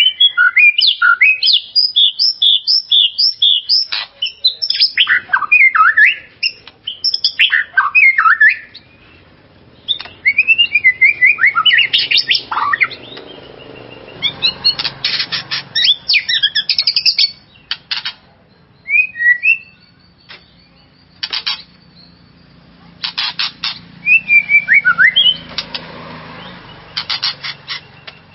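White-rumped shama (murai batu) singing: loud bursts of quick, varied whistled phrases broken up by rapid rattling notes, with short pauses between the bursts.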